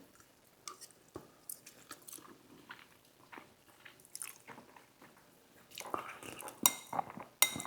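A person chewing a bite of Spam: soft, wet mouth clicks and smacks, busier and louder in the last couple of seconds, with a few sharper clicks near the end.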